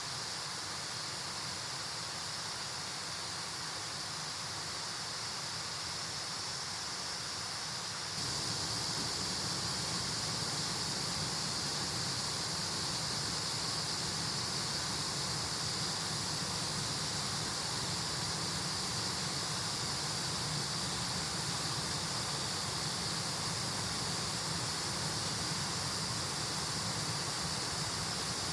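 Mountain stream rushing over rocks: a steady wash of water noise that steps up louder about eight seconds in.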